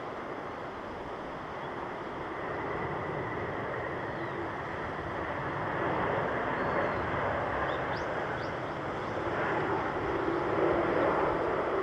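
Jet airliner engine noise, a steady rushing sound that grows gradually louder as the Japan Airlines Boeing 767 approaches.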